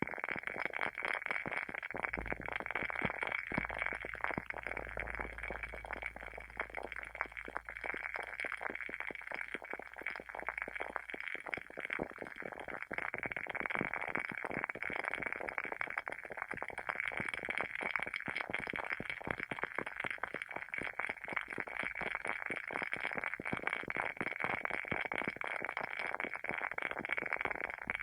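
Wooden candle wick of a WoodWick candle burning with a steady fine crackling, many small irregular pops close together.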